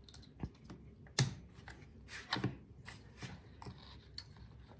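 Scattered light clicks and rubbing from handling the wires and plastic connector on a small generator, with one sharper click a little over a second in.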